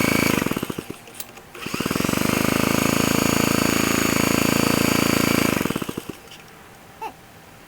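The Clinton 1.5 hp engine of a 1950s Bready walk-behind tractor, cold, firing briefly and fading out within the first second. It catches again about a second and a half in, runs steadily for about four seconds, then dies away. This failure to keep running was later put down to a bad spark plug.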